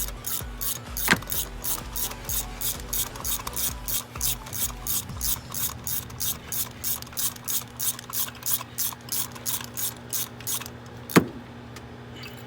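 Hand ratchet on a 5/8 spark plug socket clicking steadily, about four clicks a second, as a spark plug is threaded back into the engine; the clicking stops and a single sharp knock follows near the end.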